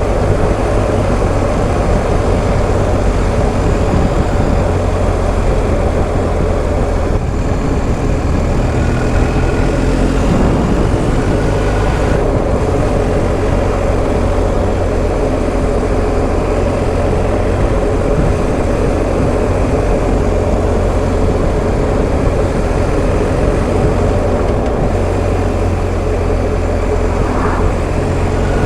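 BMW R1250 GS Adventure's boxer-twin engine running steadily at cruising speed, under constant wind and road noise.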